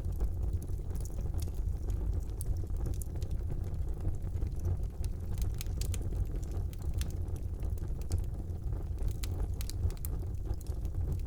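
Fire burning in a fireplace: a steady low rumble of flames with frequent small, sharp crackles and pops scattered irregularly throughout.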